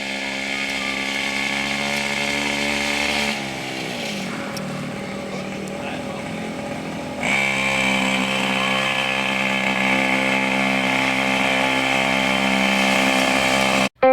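A motor running steadily. It slows with a falling pitch about three seconds in, then picks up again a few seconds later and runs steadily until it cuts off near the end.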